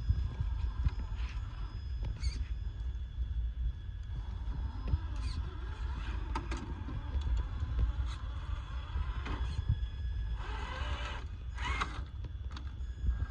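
Radio-control crawler trucks driving on a trail: short bursts of electric motor and gear whine come and go over a steady low rumble, the strongest near the end.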